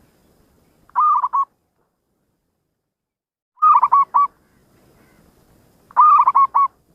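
Zebra dove (perkutut) cooing: three short phrases of quick, clipped coo notes, each a run of three to five notes. They come about a second in, at about the middle, and near the end, and the last phrase is the longest.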